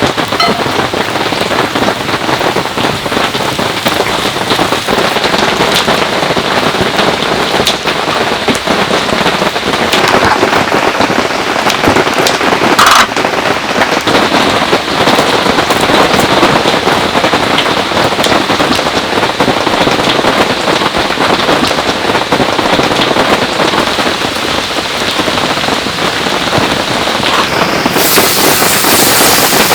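Heavy downpour, a dense, steady patter of rain with many fine drops ticking. There is one sharper knock about 13 seconds in, and the sound turns brighter and hissier near the end.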